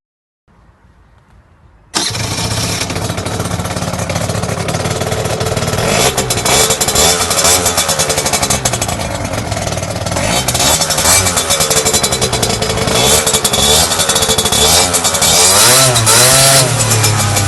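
Speedfight 4 scooter's engine and exhaust, cutting in abruptly about two seconds in after a quiet moment. It then runs and is revved, with the pitch rising and falling several times toward the end.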